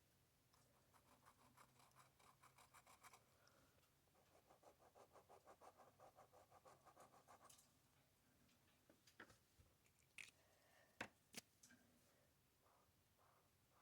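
Faint scratching of a drawing tool on paper in quick back-and-forth shading strokes, about five a second, in two runs. A few sharp taps follow in the second half.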